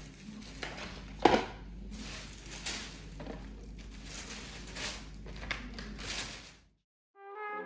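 Footsteps crunching in snow at a walking pace, about one and a half steps a second, stopping abruptly near the end. Piano music starts just after a brief silence.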